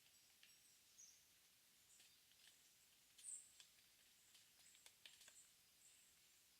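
Faint early-morning woodland ambience: scattered thin, high bird calls and short ticks from small birds, the loudest call about three seconds in.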